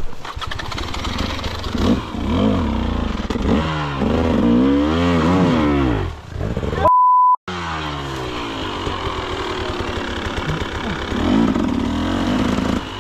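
Dirt bike engine revving hard, its pitch rising and falling again and again as the rider fights up a steep, slick hill. About seven seconds in, a short steady censor bleep cuts in, then the engine runs on.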